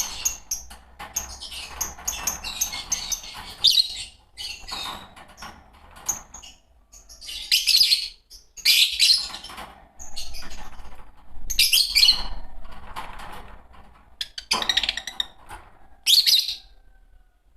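A pair of Fischer's lovebirds chirping and chattering: loud, shrill bursts of chirps every two to three seconds over softer, continuous twittering.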